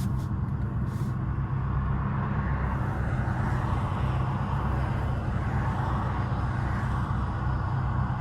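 Catless, straight-piped BMW 540i's B58 turbocharged inline-six on the move, its exhaust a steady low drone. A rushing noise swells in the middle and eases near the end.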